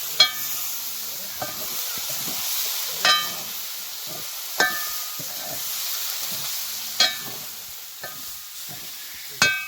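Food sizzling as it fries in a metal pan, with a metal spoon clinking against the pan as it is stirred every second or two. The clinks ring briefly, and several come in quick succession at the end.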